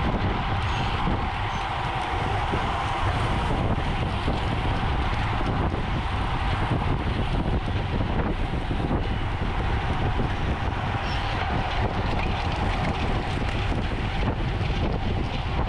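Steady wind rushing over the microphone with a continuous low rumble of motion, as from a bicycle moving at speed.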